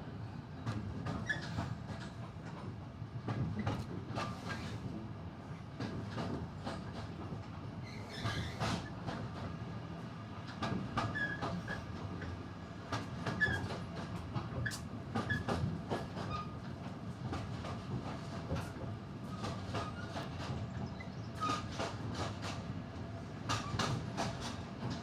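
Passenger train running on the rails, heard from on board: a steady rumble with wheels clicking over rail joints and brief squeaks from the wheels and carriage.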